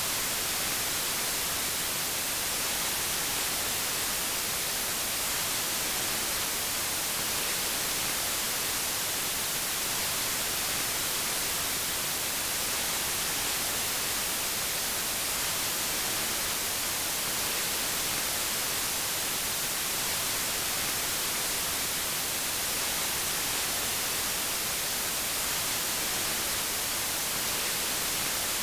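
Steady white noise: an even, unbroken hiss, brightest in the high end, with no change throughout.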